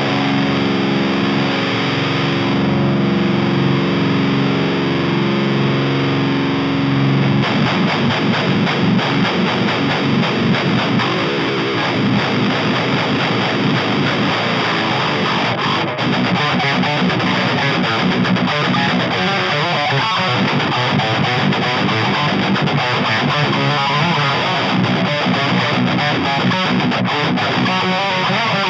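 Ibanez Iron Label seven-string electric guitar with heavy high-gain distortion from an amp-simulator plugin, playing metal. A chord rings out held for about the first seven seconds, then fast palm-muted chugging riffs take over.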